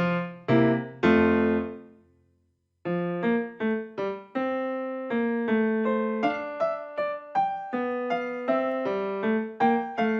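Background piano music: a phrase of notes dies away to silence about two seconds in, then a new, steady run of notes begins.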